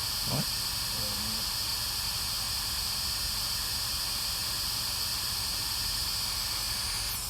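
Steady hiss with a low rumble underneath, even throughout; a brief spoken word cuts in about half a second in.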